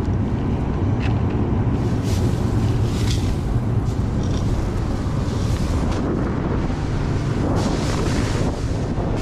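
Combine harvester running steadily at a low hum, with its corn head engaged and wind buffeting the microphone.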